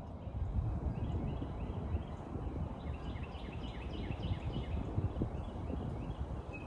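A bird chirping a quick run of short, high, falling notes over a steady low outdoor rumble.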